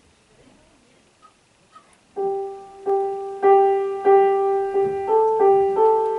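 Piano starts about two seconds in after near silence, playing a slow figure of single notes struck about twice a second, mostly one repeated note, stepping higher near the end.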